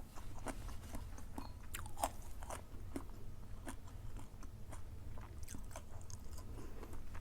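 A person chewing and biting crunchy food close to the microphone: irregular wet crunches and clicks.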